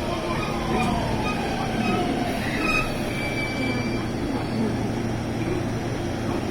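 Electric train moving through the station: a falling motor whine in the first second, a steady low hum, and a short wheel squeal a little under three seconds in.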